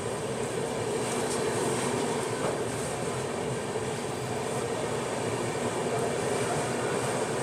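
Howrah–Amritsar Mail's coaches rolling slowly into a station platform: a steady rumble of wheels on the rails, heard from the coach doorway.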